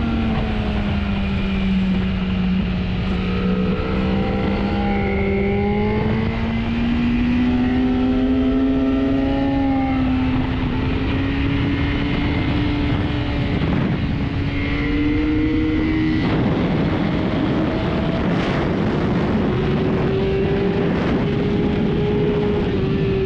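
Sport motorcycle engine running at high revs on a race track, heard from on board with wind rush. The engine note dips slightly at first, then climbs slowly and steadily, and drops again near the end. The wind noise grows louder about two-thirds of the way through.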